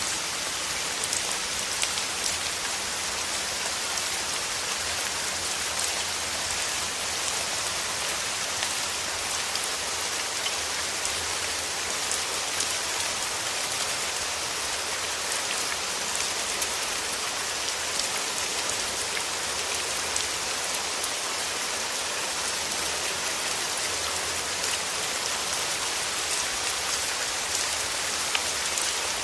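Steady rain falling, an even hiss with many fine drop ticks hitting a surface.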